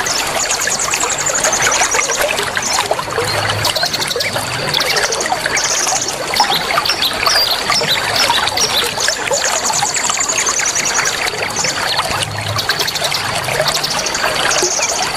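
Water trickling steadily under a dense chorus of small songbirds chirping and trilling, with a high trill that comes back about every nine seconds as the recording loops.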